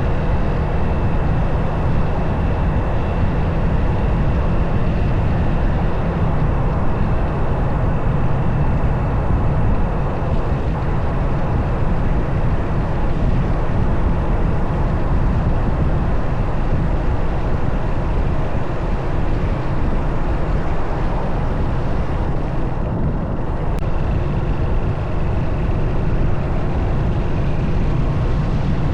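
Motorcycle on the move at a steady speed: dense wind rush on the camera microphone with the bike's engine running beneath it, holding level without changes.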